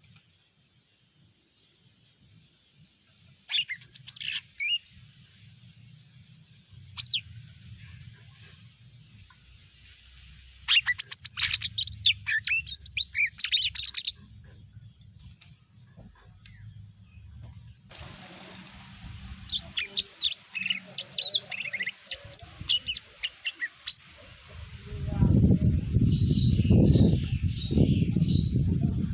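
Cucak ijo mini (a small leafbird) singing in short bursts of rapid, high chirps and trills with pauses between them. Near the end a loud low rumbling noise comes in under a fainter warble.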